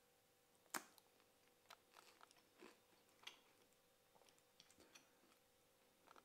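Faint crunchy bite into a piece of honey-and-sugar almond brittle, one sharp crack about a second in, then intermittent crunching as it is chewed.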